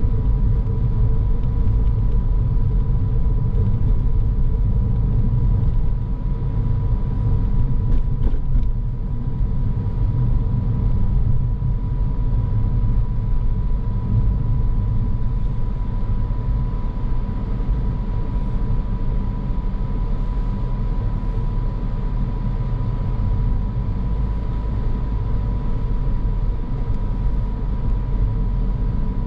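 Car driving along a road: a steady low rumble of engine and tyres, with a thin steady tone running under it.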